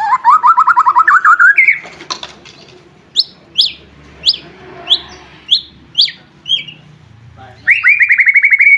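White-rumped shama (murai batu) singing: a fast trill climbing in pitch, then a string of about seven sharp, downward-sliding whistles roughly every half second, and another fast trill near the end.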